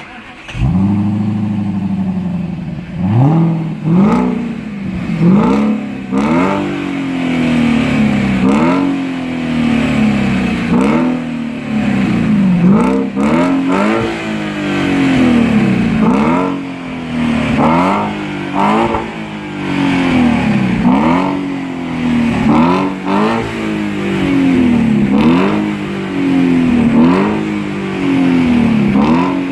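Audi A8 4.2-litre V8 with a tuned exhaust starting up, then revved over and over in short blips, about one every second and a half, each rev rising and falling back toward idle.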